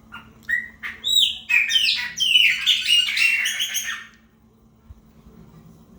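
Chopi blackbird singing: a few short separate notes, then a fast, loud run of rising and falling notes that stops about four seconds in.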